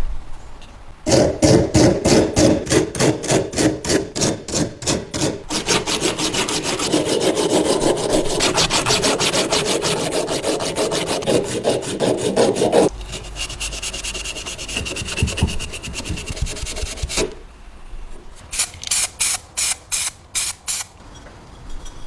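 Abrasive hand strokes rubbing back and forth on a part of an old vegetable slicer under restoration, about four strokes a second. The strokes run together into denser continuous rubbing, go softer for a few seconds, then come back as a short run of strokes near the end.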